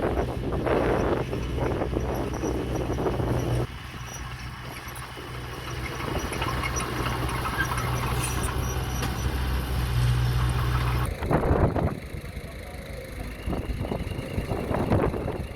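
Heavy earthmoving machine's engine running steadily with a low hum. The sound changes abruptly about four seconds in and again near the end.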